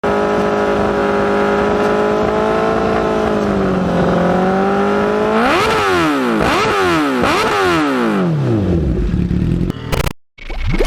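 Motorcycle engine running steadily, then blipped three times in quick succession, each rev rising and falling back, before dying away near the end.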